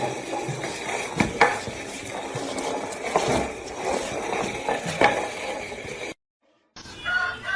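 Scraping and rustling handling noise with a few sharp clicks and clinks. It cuts off about six seconds in, and a cat starts a long, drawn-out meow near the end.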